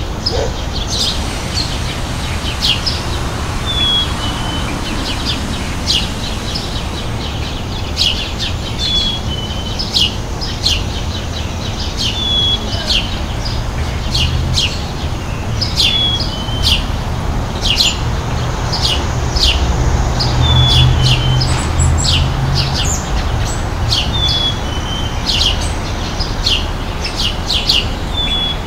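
Small birds chirping busily, with a short whistled note coming back every three or four seconds, over a low steady rumble.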